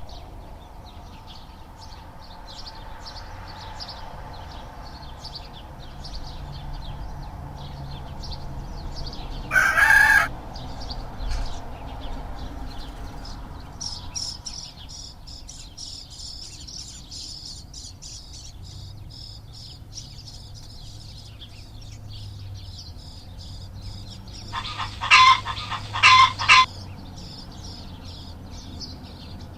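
Bird calls: one loud call about ten seconds in and three short loud calls near the end, over continual faint high chirping.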